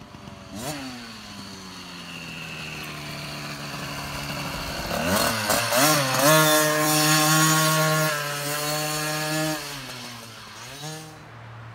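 Small 50cc two-stroke kids' dirt bike engine revving as the bike rides the track. The revs climb and hold, and the sound grows louder toward the middle and then fades. The revs drop briefly near the end and pick up again.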